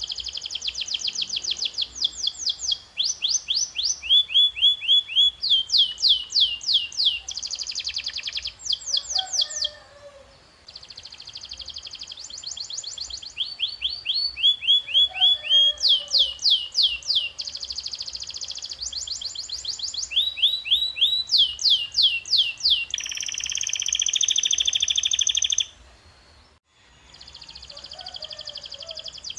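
Domestic canary singing: a long run of rapid trills and repeated downward-sweeping notes, switching from one phrase to the next every second or two, with short breaks about ten seconds in and near the end.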